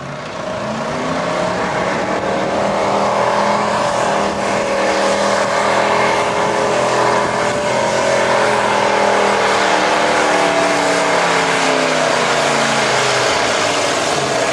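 Pulling truck's engine at full throttle, dragging the weight-transfer sled down the track. The revs climb over the first couple of seconds, hold high through the run, then drop off near the end.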